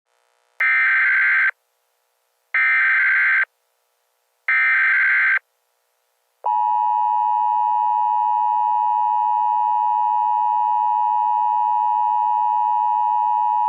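Emergency Alert System SAME header: three bursts of digital data tones, each about a second long and about two seconds apart, announcing a new alert. About six seconds in, the steady single-pitch NOAA Weather Radio attention tone (1050 Hz) starts and holds.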